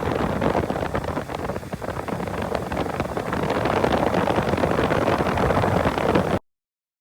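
Air blower blasting air through a car's AC evaporator core: a loud, rough rushing with buffeting on the microphone, cutting off suddenly near the end.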